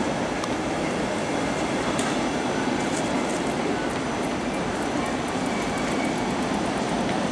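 Double-deck regional train coaches rolling along the platform: a steady rumble of wheels on rail, with a quick run of faint high clicks about halfway through.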